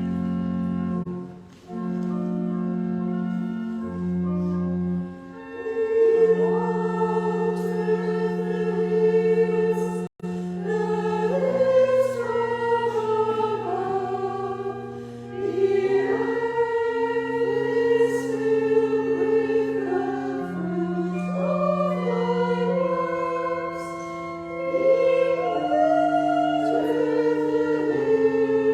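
Church choir singing a harvest anthem over sustained organ chords. The organ plays alone for the first few seconds, and the voices come in about five seconds in. The sound cuts out for an instant about ten seconds in.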